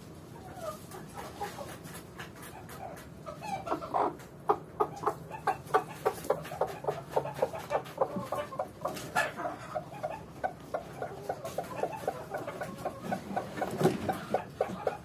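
Hen clucking in a quick, steady run of short clucks that starts about three seconds in and keeps up to the end, several clucks a second.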